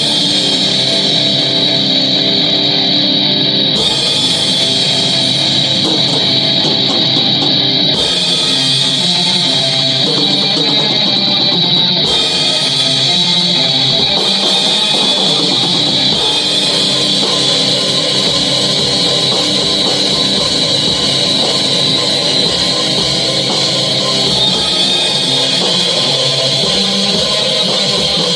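Metal band playing at rehearsal: distorted electric guitar over a drum kit, dense, loud and unbroken, with a bright hiss on top. The pattern shifts about every four seconds.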